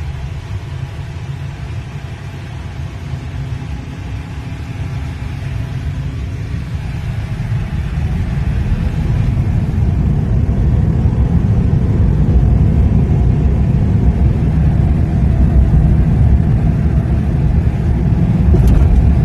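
Low road and tyre rumble inside the cabin of a Tesla Cybertruck, an electric pickup with no engine note, growing louder as it gathers speed through the first half and then holding steady.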